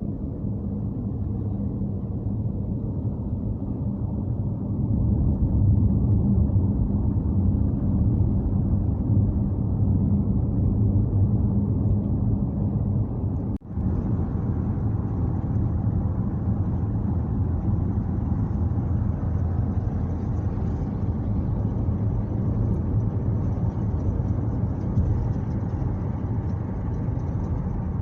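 Steady low rumble of a car driving on a road, engine and tyre noise, with a brief cut-out about halfway through.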